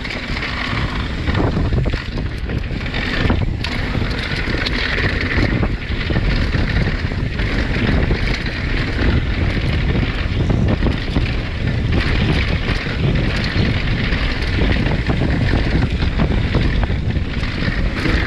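Wind rushing over the microphone while a mountain bike rides fast down a rough trail, with its tyres on dirt and rock and many short knocks and rattles from the bike.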